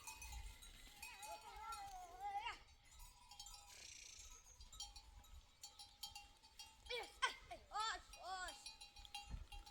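Sheep or goat herd bleating over the steady clinking and ringing of livestock bells: one long wavering bleat about two seconds in, then a quick run of short bleats near the end.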